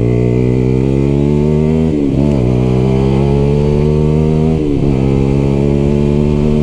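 A Lexmoto LXR 125 motorcycle with an aftermarket exhaust accelerates hard through the gears. The engine note rises steadily, drops sharply at each of two upshifts, about two seconds in and again past the middle, then climbs again.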